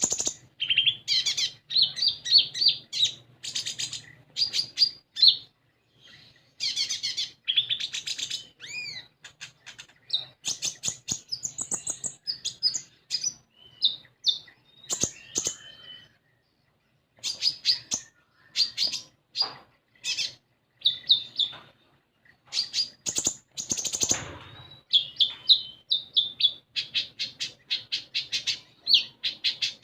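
Common iora (konin) in full song: fast phrases of sharp, repeated chirps and trills, broken by short pauses and a brief silence about halfway through.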